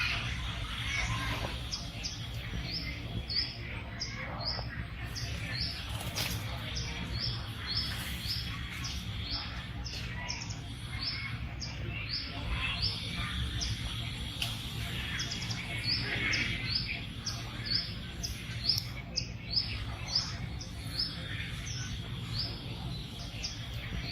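Short, high bird-like chirps repeated two or three times a second, over a steady low rumble.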